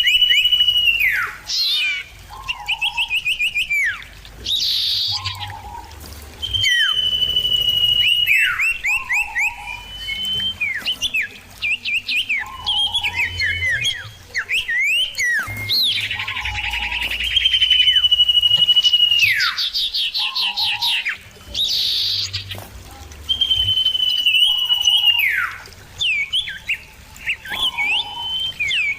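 Common iora (cipoh) singing. Long level whistles end in a downward slide and alternate with quick chattering trills, the phrase repeating every few seconds.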